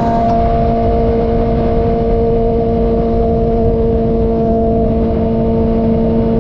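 2006 Suzuki GSX-R600's inline-four engine through a Coffman's exhaust, running at a steady engine speed on the move. Wind noise on the microphone.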